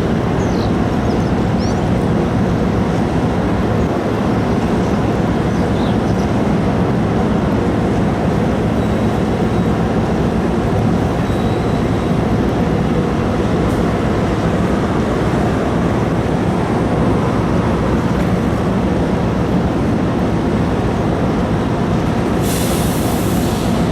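Steady low drone of a large car ferry's diesel engines and machinery, with a fine even pulsing. A brief hiss about a second long comes near the end.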